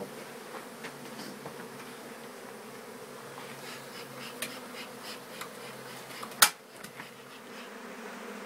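Steady buzzing of many honeybees from a colony disturbed while being cut out of a wall. A single sharp click or knock comes about six and a half seconds in, with fainter small clicks scattered throughout.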